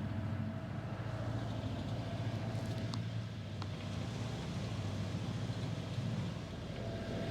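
Sailing catamaran's engine running steadily under way, a constant low hum with an even fine pulse.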